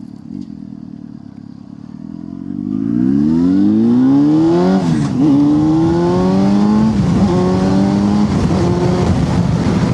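Motorcycle engine running low and gently for a couple of seconds, then accelerating hard, the revs rising and dropping back at each upshift, about three gear changes. Wind rushes over the helmet microphone as speed builds.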